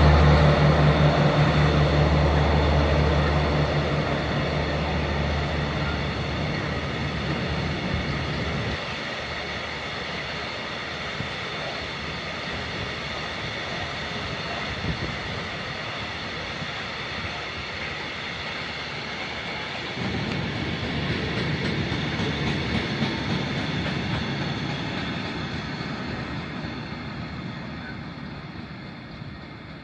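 A train passing close by. A deep engine drone is loud at first and gives way after several seconds to the steady rolling of the cars, which swells again briefly and then fades away near the end.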